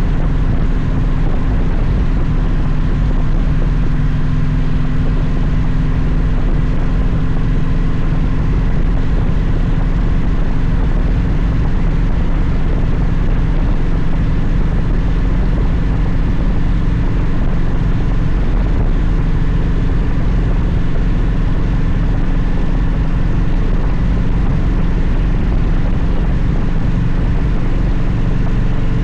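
Victory motorcycle's V-twin engine running steadily at a cruise, its pitch holding nearly constant.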